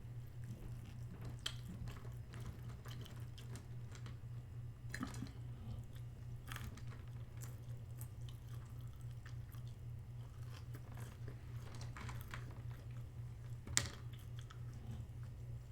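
A person chewing food with mouth sounds and occasional crunches, over a steady low hum. A sharp click stands out near the end.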